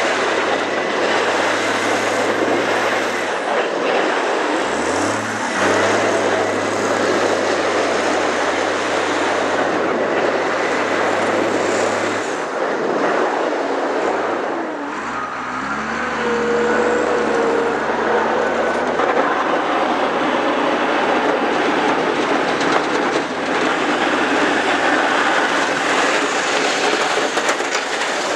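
A vehicle's engine running while under way, with a loud, constant rushing and rattling noise. The engine note drops and changes about four seconds in and again around the middle.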